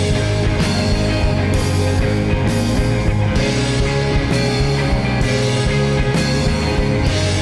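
A rock band playing an instrumental passage: electric guitars, bass, keys and drums, with a steady beat and no singing.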